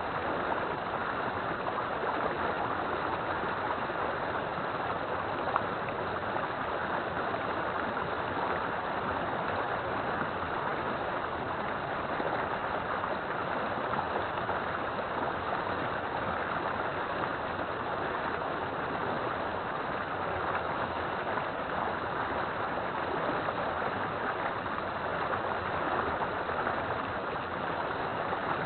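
River water flowing steadily, an even rushing wash with no let-up.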